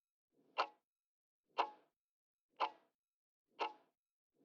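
Clock-tick sound effect: four sharp ticks, one a second, counting down the time to answer a quiz question.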